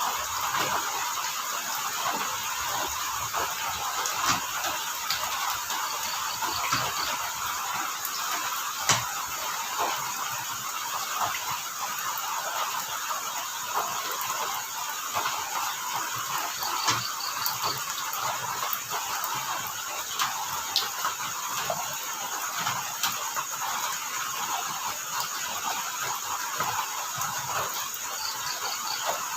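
Steady rain falling, with scattered sharp drops and drips landing close by. A few short, high, pulsed cricket trills sound through it.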